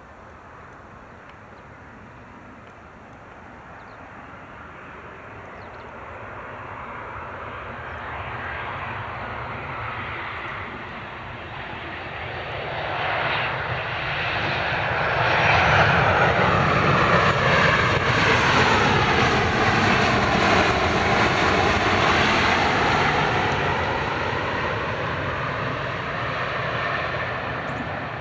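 Jet airliner's engines passing close by on a runway departure: the noise builds steadily, is loudest about two-thirds of the way through with a sweeping tone that dips and rises again as it goes past, then fades.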